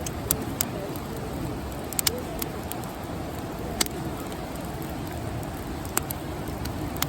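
Wood campfire burning, with a steady low rush and sharp irregular pops and crackles, about one every second or so, two in quick succession about two seconds in.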